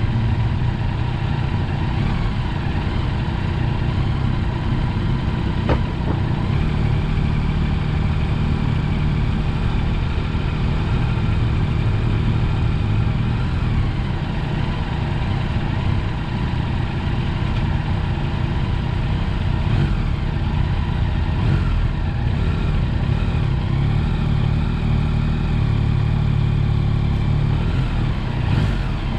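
Yamaha Tracer 9 GT motorcycle's engine running steadily while riding, with a steady rush of wind and road noise; the engine note shifts only slightly.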